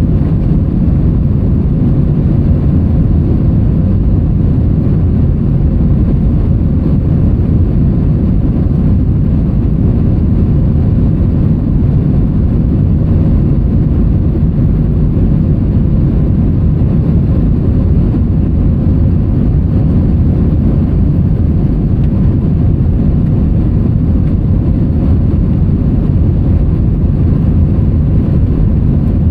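Steady low rumble of an Airbus A321's engines and airflow heard inside the rear economy cabin in flight. The sound is even, with no changes in pitch or loudness.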